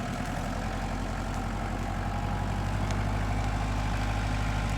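An engine idling steadily with a low, even rumble that grows slightly louder.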